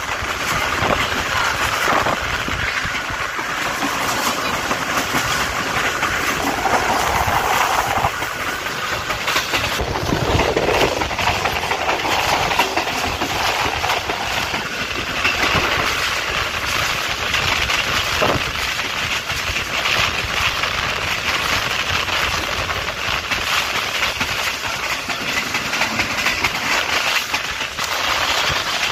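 Tez Gam Express passenger train running along the track, a steady rumble and rush with repeated knocks of the wheels over the rail joints.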